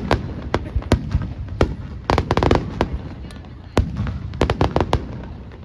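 Fireworks display: aerial shells bursting with sharp bangs over a low rumble, with a dense run of rapid crackling pops about two seconds in and another quick series of bangs between four and five seconds.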